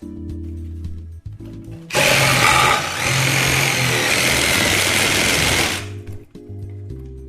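Power saw cutting through the ceiling for the chimney hole, starting about two seconds in, running loudly for about four seconds and then stopping.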